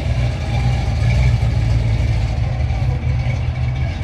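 A car engine idling close by, running steadily at a low pitch.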